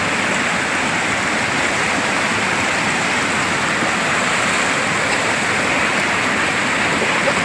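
Flowing river water, a steady rush.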